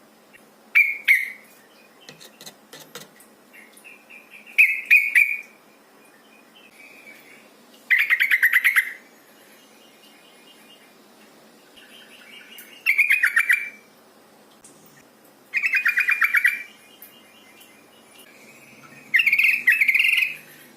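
Yellow-vented bulbul (trucukan) giving bursts of quick, bubbly chattering calls, six in all, a few seconds apart. This is a female's call, the kind used as a lure to set males singing.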